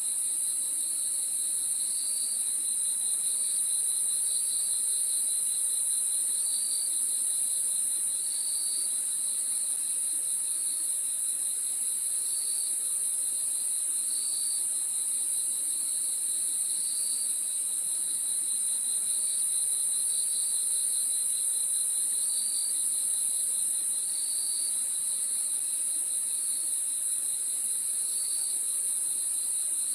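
Crickets chirping: a steady, unbroken high trill, with a lower chirp that repeats about every two seconds.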